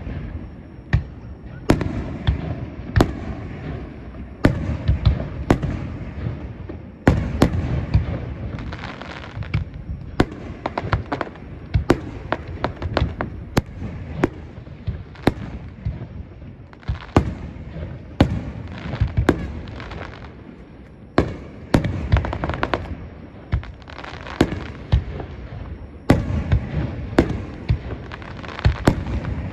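Aerial firework shells bursting in quick, irregular succession: dozens of sharp bangs, each trailing off in a low rumble.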